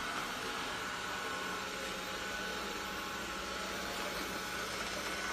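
Roborock S6 Pure robot vacuum running: its suction fan makes a steady hiss with a faint high whine.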